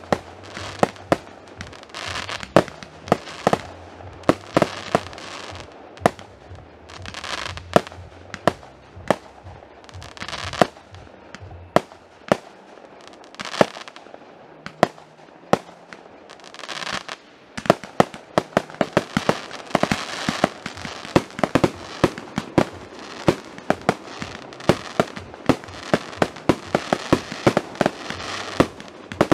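Fireworks display: aerial shells going off in sharp bangs, several a second, with stretches of crackling hiss between. After about seventeen seconds the bangs thicken into a dense, rapid barrage.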